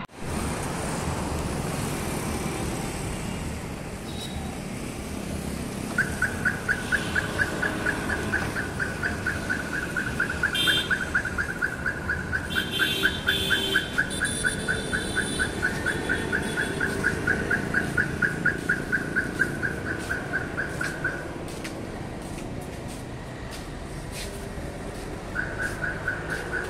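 A vehicle's electronic beeper sounding a rapid string of identical short beeps, about four a second, for some fifteen seconds. It stops, then starts again near the end, over a steady hum of street traffic.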